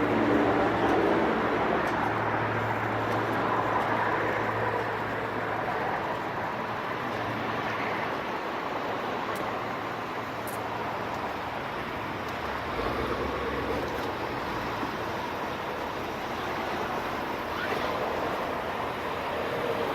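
2015 Ford Mustang GT rolling at low speed. A low engine hum is strongest in the first several seconds and then fades under steady road and tyre noise.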